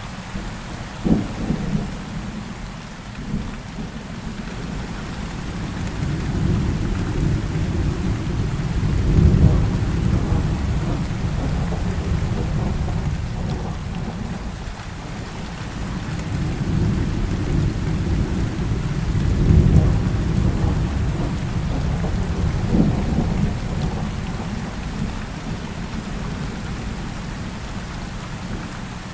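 Heavy rain falling steadily, with a sharp thunderclap about a second in and two long rolls of deep thunder that swell and fade, one in the first half and one in the second.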